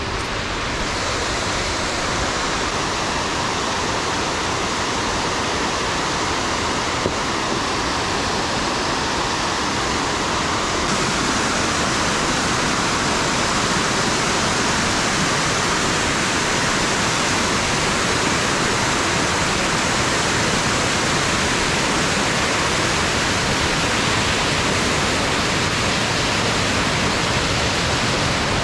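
Steady rush of fast-flowing mountain stream water, a continuous even roar that grows a little fuller about a third of the way through.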